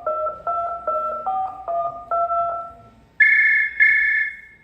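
Touch-tone phone keypad being dialled, a quick run of short two-tone beeps for about two and a half seconds. Then a phone rings twice in short bursts, a higher two-tone sound.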